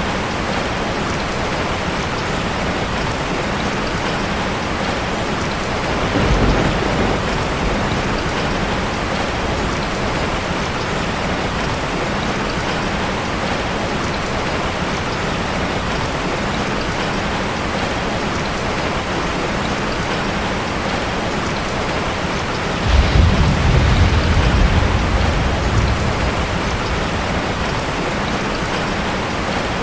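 Heavy rain falling as a dense, steady hiss. A short low rumble of thunder comes about six seconds in, and a longer, louder rumble about three-quarters of the way through.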